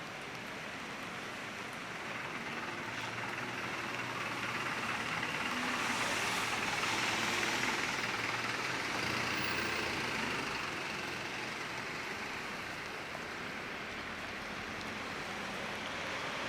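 A vehicle driving past on a wet street, the hiss of its tyres on the wet road swelling to a peak about seven seconds in and then fading, over steady rain noise.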